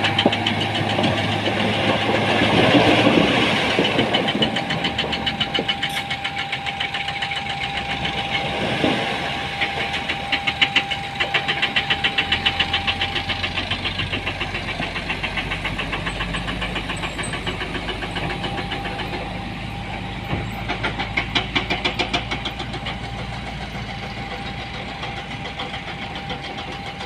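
Heavy diesel engine of construction machinery running with a rapid, even clatter. A deeper low rumble joins about halfway through.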